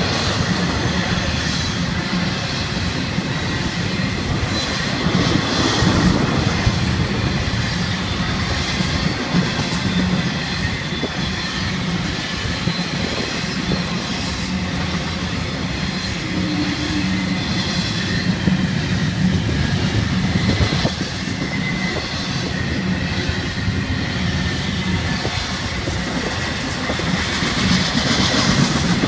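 Florida East Coast Railway intermodal freight train rolling steadily past: double-stack container cars and trailer-carrying flatcars, their wheels rumbling and clicking rhythmically on the rails.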